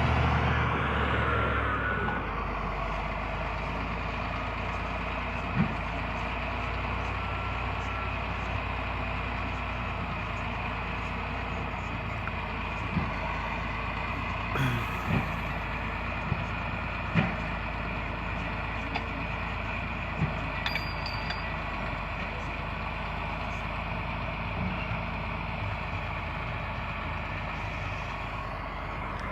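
Heavy diesel engines running steadily while a tractor is loaded onto a truck, somewhat louder for the first couple of seconds and then settling, with a few short sharp knocks along the way.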